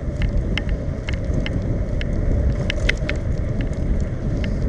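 Wind buffeting the microphone of a bicycle-mounted camera while riding, a dense low rumble, with scattered light ticks and rattles from the hybrid bike.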